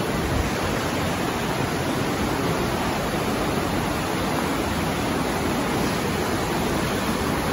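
Mountain river water rushing steadily through a rock tunnel just above a waterfall, a continuous even noise with no breaks.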